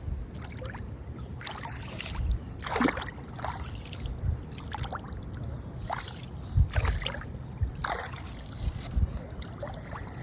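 Floodwater splashing and sloshing in short, irregular bursts as a clogged storm drain is cleared by hand, over a low rumble of wind on the microphone.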